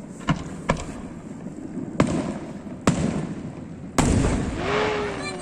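Aerial fireworks shells bursting: several sharp bangs in the first three seconds, then a heavier boom about four seconds in that trails off in a rumble.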